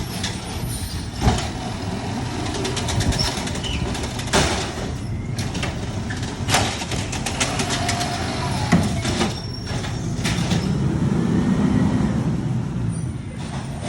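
Garbage truck engine running with a low rumble, broken by several sharp clanks, the rumble swelling about ten seconds in.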